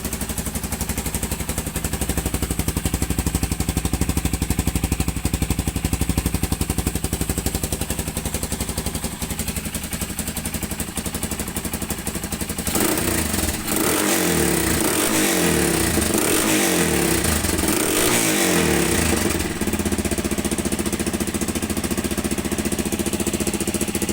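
1989 Yamaha XT225 Serow's single-cylinder four-stroke idling through a cheap aftermarket exhaust with the dB killer (baffle) removed. About halfway through, the throttle is blipped several times and the revs rise and fall, then it settles back to idle.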